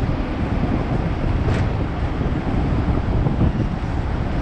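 Hong Kong tram running, a steady low rumble with wind buffeting the microphone. There is a brief sharp sound about a second and a half in.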